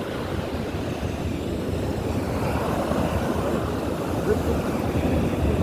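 Steady rushing noise of wind on the microphone mixed with Baltic Sea surf breaking on the beach, heaviest in the low range, with no distinct events.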